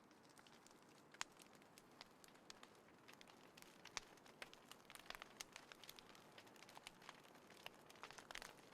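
Small wood fire crackling faintly in a folding fire stand: irregular snaps and pops over a soft hiss, coming more often from about halfway through.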